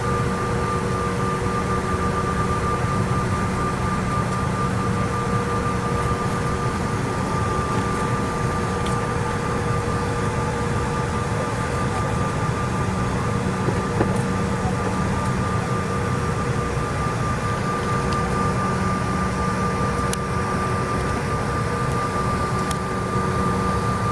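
Cabin noise of a CRJ-900 regional jet, its rear-mounted turbofan engines running at a steady setting: an even rush of noise with a steady whine and a low hum that do not change.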